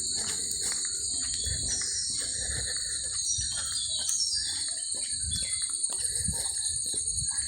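Steady, high-pitched chorus of insects in the early-morning countryside, with a few short falling bird whistles around the middle and scattered soft low thumps.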